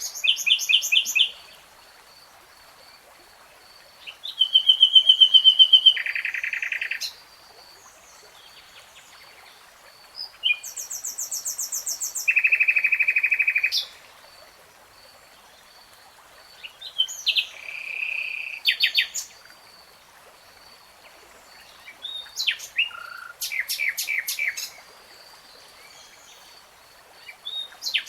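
A songbird singing in separate phrases of fast repeated high notes, each phrase one to three seconds long, with pauses of a few seconds between them; about six phrases.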